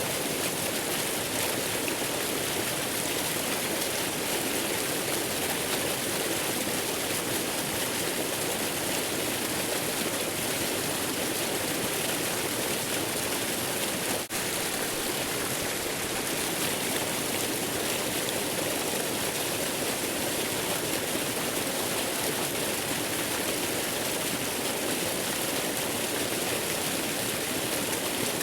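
Steady rushing hiss of a waterfall, even and unchanging, with a momentary dip in level about halfway through.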